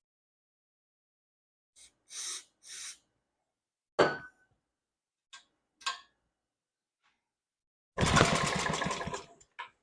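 Pull-starting the small two-stroke engine of a 1950s Sears reel mower on starting fluid: a few short noisy pulls and knocks, then near the end the engine fires and runs for about a second and a half before dying out.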